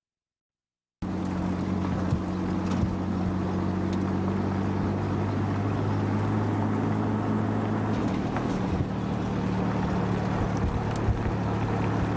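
An engine or motor running steadily with a low, even hum, mixed with wind noise on the microphone; it starts abruptly about a second in after dead silence.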